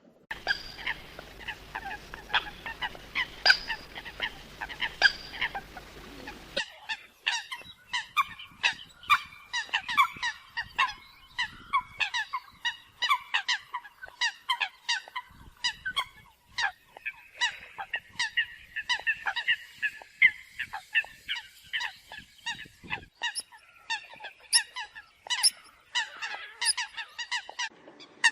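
Eurasian coots calling: a dense, overlapping run of short, sharp calls from several birds, several a second. A low hum runs under the calls for the first six seconds or so, then cuts off abruptly.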